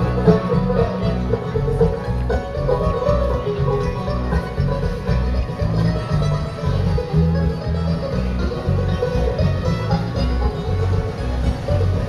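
Country-bluegrass band playing an instrumental passage with banjo and guitar over a steady bass beat.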